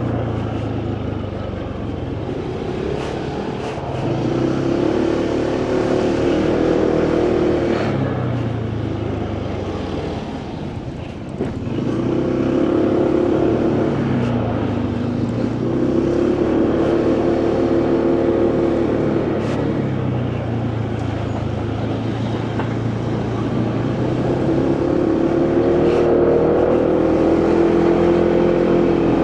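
Motorcycle engine running under way, its pitch rising as it accelerates and dropping back several times, with a steady rush of wind and road noise. It eases off briefly about ten seconds in, then picks up again.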